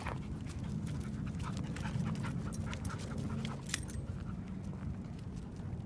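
A dog panting, with short irregular scuffing clicks throughout.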